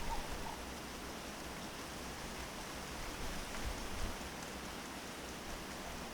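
Steady outdoor hiss, with a few short bird notes in the first half second.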